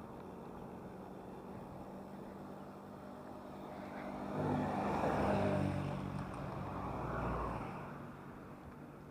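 A motor vehicle's engine drawing close and passing: it swells about halfway through, stays loud for a few seconds, then fades away, over a quieter steady engine hum.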